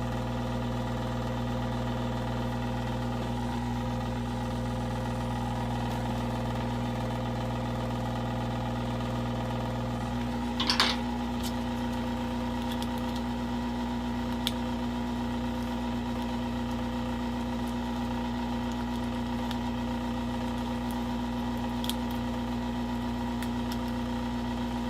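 Hot-air gun's blower running steadily with a constant hum, left on at about 400 °C while the phone's screen adhesive is softened. About ten seconds in the lowest part of the hum drops away, and a brief sharp crackle follows.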